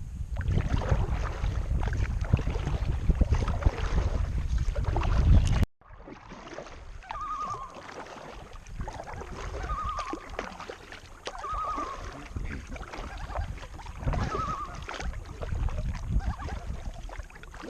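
Wind buffeting the microphone over kayak paddling for the first few seconds. After a sudden cut comes a common loon's tremolo call: a short wavering note repeated about every two seconds over soft paddle splashes.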